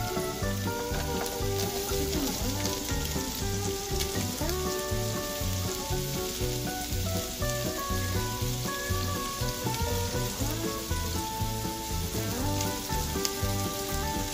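Sliced onion, carrot, red bell pepper and green chilli sizzling in hot oil in a nonstick frying pan, a steady hiss, with background music playing over it.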